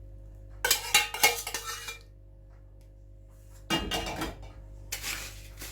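Utensil clinking and scraping against a dish in three bouts, as melted butter is emptied out for the biscuit base.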